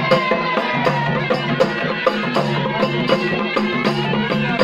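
Traditional folk music with a steady percussion beat, about three strokes a second, over a sustained low drone and a wavering melody line.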